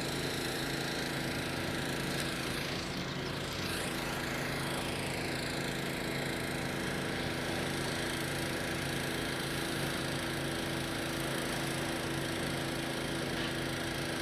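A small gasoline engine running steadily at a constant speed, a continuous drone.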